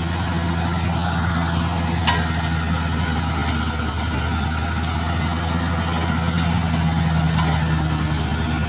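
Bulldozer diesel engine running steadily under work, with a high-pitched metallic squeal from the tracks that comes and goes and a single clank about two seconds in.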